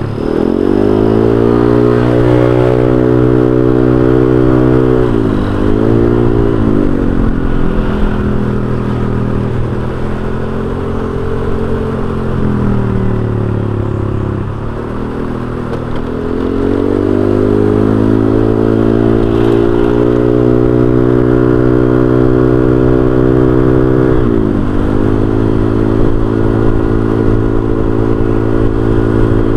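Honda Vario 125 scooter's single-cylinder engine running through an aftermarket racing exhaust while riding. The engine note climbs quickly, holds steady, and eases off and picks up again several times as the throttle is rolled off and reopened.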